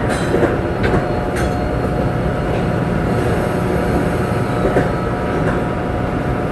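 Amtrak passenger train rolling by with a steady, loud rumble, its wheels clicking now and then over the rail joints, over a faint steady whine.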